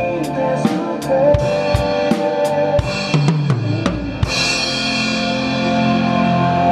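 Drum kit played along to a worship-song backing track: a steady beat of kick and snare, a quick fill about three seconds in, then a cymbal crash ringing over the song's held final chord.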